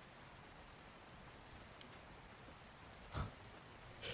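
Steady rain ambience, an even hiss of rain, with a brief louder soft sound about three seconds in and another just at the end.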